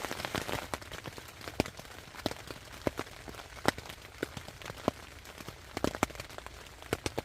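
Rain falling on a tent, heard from inside: a steady hiss with many single drops tapping irregularly on the fabric.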